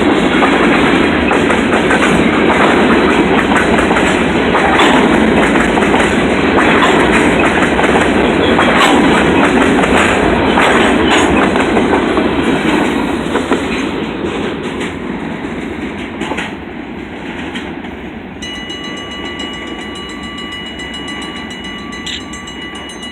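Freight train cars rolling past on jointed rail with a rapid clickety-clack of wheels over the rail joints. The rolling dies away from about thirteen seconds in as the end of the train goes by. A steady ringing tone comes in near the end.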